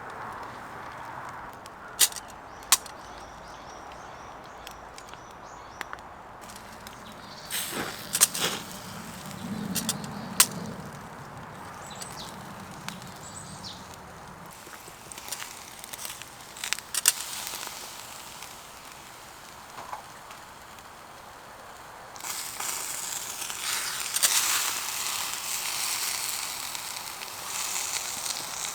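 Wood fire crackling with scattered sharp pops, then about two-thirds of the way in a tomahawk steak starts sizzling on the grill over the fire, a dense steady hiss that takes over.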